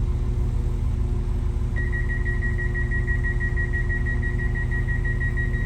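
Steady low rumble of a passenger train's interior. About two seconds in, a high electronic beep starts and holds with a fast flutter.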